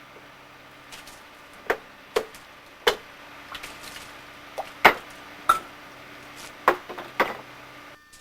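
A series of about seven sharp knocks or clicks at irregular intervals, some with a brief ring, the loudest about five seconds in, over a steady low hum.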